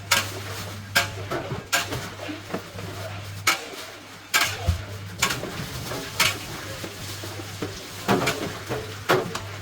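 A metal spatula clanks and scrapes against a wok while textured vegetable protein is stirred in hot oil. The sharp knocks come irregularly, about once a second, over a steady low hum.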